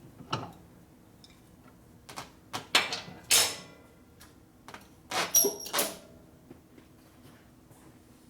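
Workshop clatter of hand tools and metal parts at a motorcycle wheel: a cluster of sharp knocks and rattles about two to three and a half seconds in, then another cluster around five seconds in, one of them with a short metallic ring.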